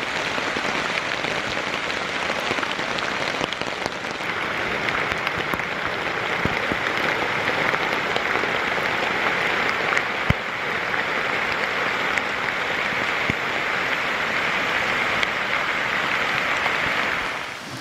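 Heavy rain falling steadily on a Seek Outside Silex tent's fly, a dense, even hiss of countless drops with a few sharper single hits.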